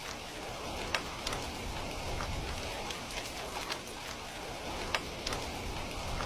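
Steady rain with a crackling wood fire: a constant hiss of rainfall with sharp pops scattered through it, the loudest about one second and five seconds in.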